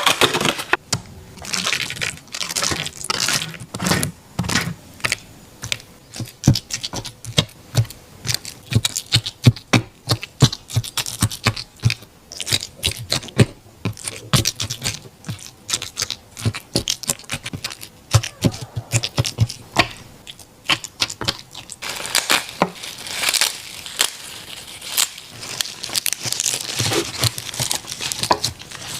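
Border collie eating a meal, a rapid, irregular run of crunching and chewing clicks, growing denser and hissier in the last quarter.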